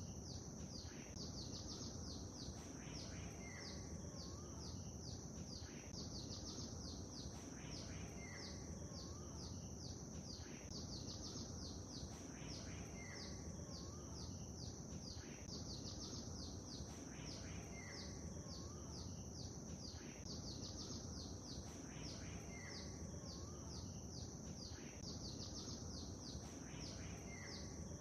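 Songbirds chirping rapidly and continuously in high, quick notes, with a short phrase that recurs every few seconds, over a steady low background of gently moving lake water.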